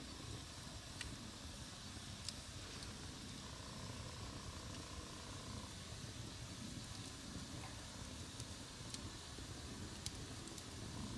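Wood campfire burning: a steady low rush of flame with scattered sharp crackles from the burning wood, a handful spread across the few seconds.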